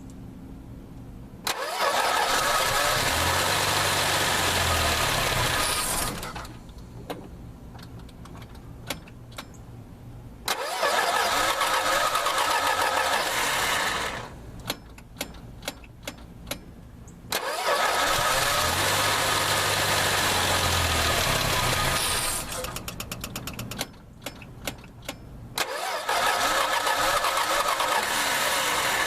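Chrysler Slant Six engine being cranked by its starter in four separate bursts of about four seconds each, not catching, with light clicks and ticking in the pauses between. After sitting for weeks it takes long cranking to draw fuel up to the carburetor.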